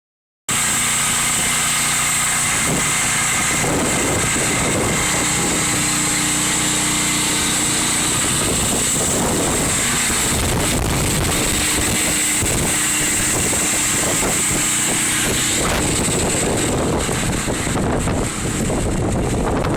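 Hurricane-force wind blowing hard and steadily, with heavy wind noise buffeting the microphone.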